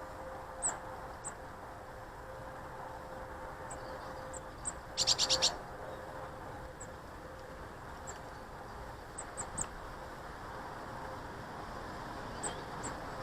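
Garden birds at a feeder calling: scattered short, high chirps, and about five seconds in a harsh call of four or five quick pulses, the loudest sound.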